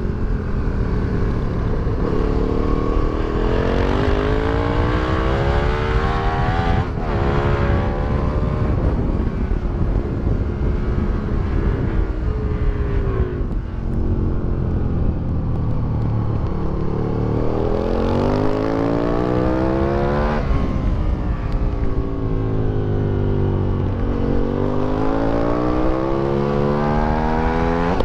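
The 2008 Aprilia Tuono 1000R's V-twin engine, breathing through velocity stacks and an Akrapovic exhaust, revs hard on a circuit lap. Its pitch climbs repeatedly under acceleration and drops abruptly at gear changes, with longer falls as it slows for corners.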